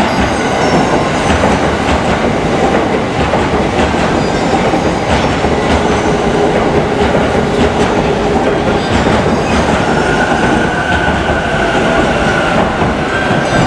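E655-series electric train cars rolling past along the platform: steady wheel-on-rail noise with the clack of wheels over rail joints.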